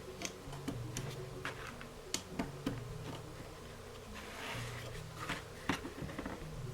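Plastic LEGO bricks clicking and knocking as they are handled and pressed together, in irregular sharp clicks with a brief soft rustle midway.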